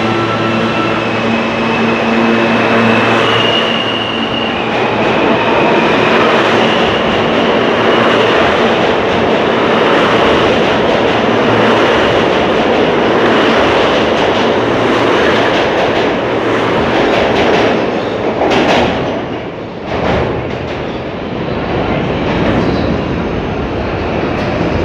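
Train passing close by: a loud, steady rush and rumble of wheels on rail. In the first several seconds thin high tones of wheel squeal or motor whine sound above it, then fade out.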